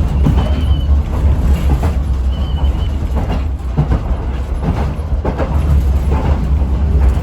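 Local electric train running, heard from inside the car: a heavy low rumble with wheels clicking over rail joints, and a thin high whine that comes and goes.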